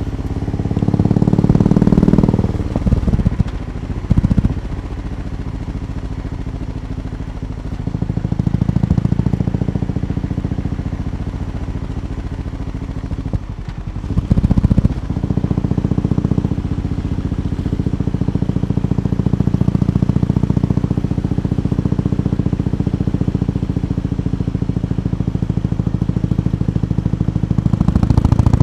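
BMW R18 B's 1802 cc boxer twin idling through its exhaust, with the engine note swelling briefly several times: about a second in, around four seconds, and near the middle.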